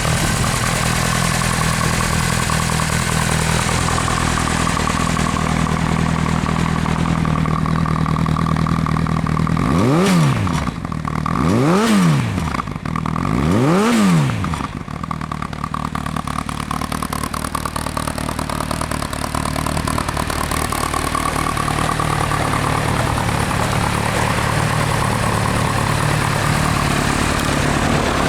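Honda CBR1000RR inline-four motorcycle engine with an aftermarket exhaust, idling steadily, then revved three times in quick succession about ten seconds in, each rev rising and falling back to idle, before settling back to a steady idle.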